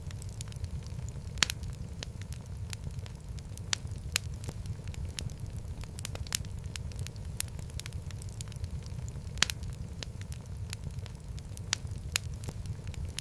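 Wood fire in a fireplace crackling, with a steady low rumble of the flames and irregular sharp pops, a few of them louder snaps.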